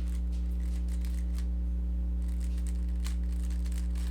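Steady low electrical hum, with faint, irregular clicks of a Rubik's cube's layers being turned.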